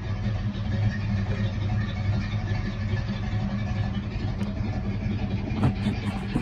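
1987 Chevrolet Monte Carlo's engine idling with a steady, even hum.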